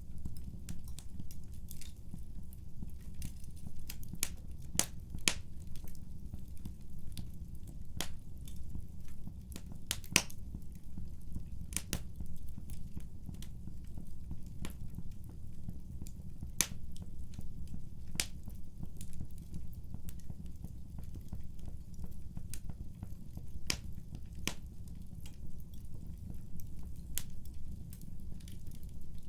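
Wood fire burning with a steady low rumble and irregular sharp crackles and pops, a few standing out louder than the rest.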